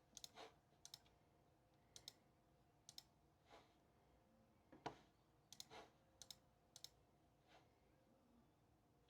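Faint, irregular sharp clicks, many in quick pairs, over quiet room tone.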